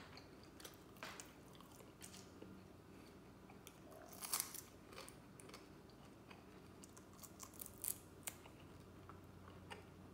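Faint chewing and small crisp crunches and clicks as a dry carob pod is eaten and pulled apart by hand, the loudest crunch about four seconds in and another near eight seconds.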